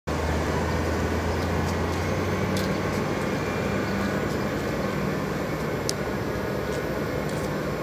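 Street traffic noise: a steady wash of sound with the low hum of a vehicle engine running close by, its hum stepping up in pitch about two and a half seconds in.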